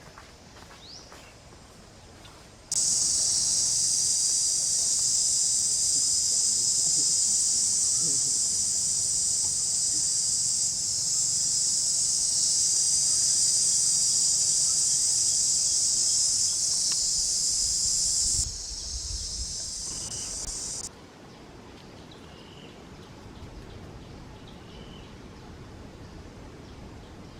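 Loud, steady, high-pitched insect drone in the style of a cicada chorus. It cuts in sharply a few seconds in, drops lower partway through and stops abruptly, leaving quieter outdoor ambience with a few faint short chirps.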